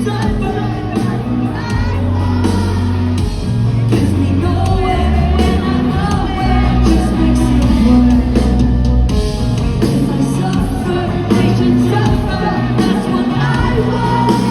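Live rock band playing loudly with a singer, heard in a large hall.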